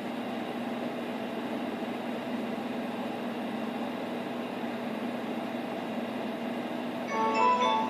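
Steady hiss and low hum of a VHS tape playing a stretch with no programme sound. About seven seconds in, music with bright chiming mallet-percussion notes starts.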